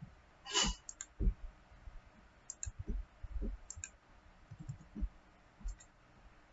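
Computer mouse clicking: a handful of short click pairs (press and release) spread a second or so apart, with soft low thuds alongside.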